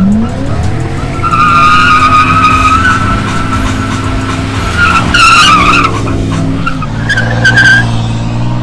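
Car doing a burnout: the engine revs climb at first and are then held high while the spinning tyres squeal, the squeal flaring louder twice.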